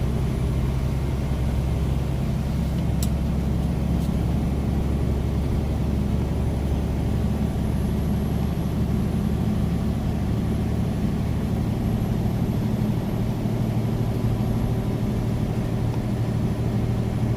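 Semi truck's diesel engine running at a steady cruise with tire and road noise, heard from inside the cab. Two light clicks sound about three and four seconds in.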